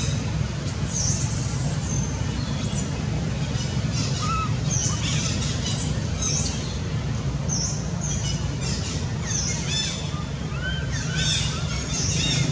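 Birds chirping and calling: many short, high chirps and a few brief arching whistles scattered throughout, over a steady low hum.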